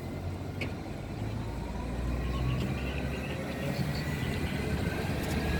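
Tram approaching: a low rumble with a whine that slowly rises in pitch, growing louder throughout.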